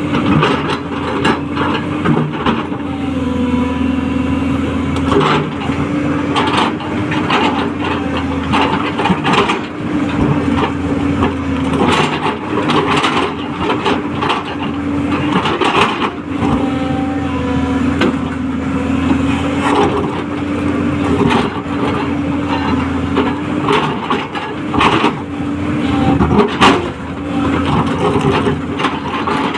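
A 210LC crawler excavator running under work, with a steady whine that wavers slightly in pitch, and frequent irregular knocks and cracks throughout.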